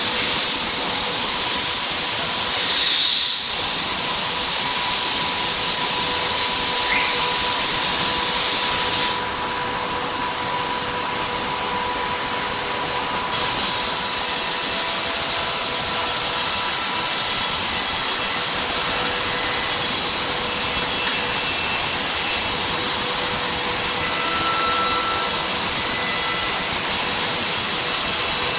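IMA BIMA Gx60 wood CNC machining centre running: a steady, loud high hiss over a faint steady hum. The hiss drops back and quietens about nine seconds in, then returns about thirteen seconds in.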